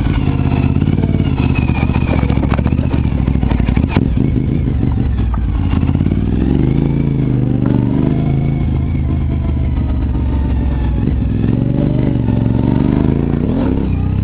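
Suzuki TL1000R's 996 cc V-twin engine running at low speed, its pitch rising and falling several times with the throttle in the second half. A few sharp knocks and rattles come about two to four seconds in.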